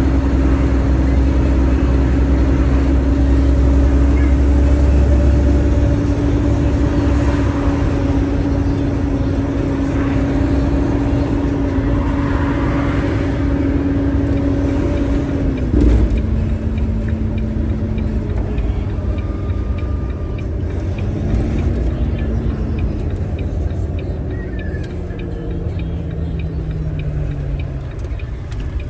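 A truck engine and road rumble while driving. The engine tone holds steady, then drops suddenly in pitch with a knock about halfway through, like a gear change, and afterwards glides down and back up as the revs change.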